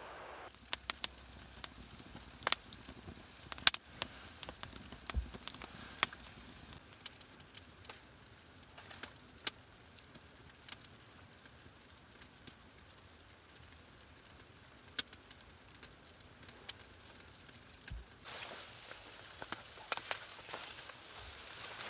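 Wood fire crackling: irregular sharp pops and ticks, a few at a time, over a faint steady hiss.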